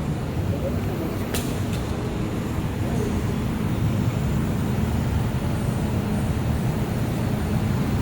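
Steady low machine rumble, with two short sharp clicks about a second and a half in.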